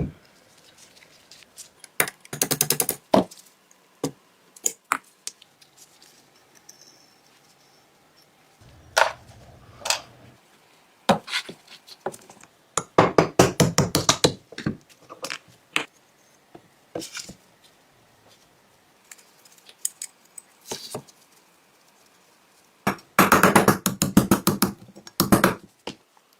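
Sharp metallic clicks and knocks from hand tools and small steel parts of a Colt M1903 Pocket Hammer pistol during disassembly, with three runs of rapid clicking.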